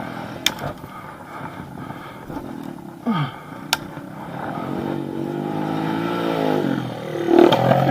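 Small single-cylinder pit bike engine revving on a dirt track: its pitch drops about three seconds in, then climbs steadily and grows louder as the bike accelerates. Two brief sharp clicks are heard along the way.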